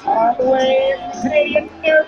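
A high voice singing: one long held note for about a second, then shorter notes moving up and down.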